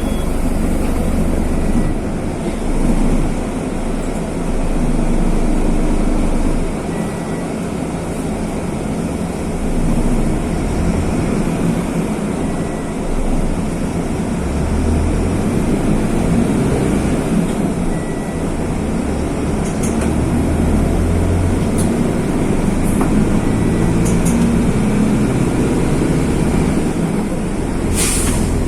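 Mercedes-Benz OF-1519 bus's OM-924 LA four-cylinder turbodiesel running, its level rising and falling. A short faint beep repeats about every five and a half seconds, and a brief hiss of air comes near the end.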